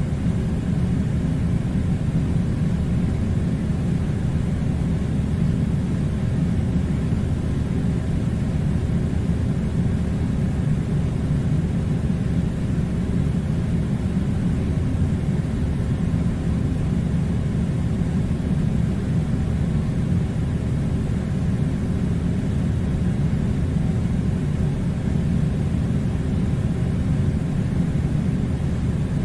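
Air conditioner running: a steady, low rumbling hum that never changes in level.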